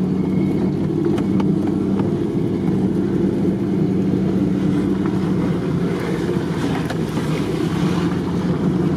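Lada Niva engine running steadily as the car drives along a rough dirt track, heard from inside the cabin, with a few light knocks and rattles from the bumpy ground.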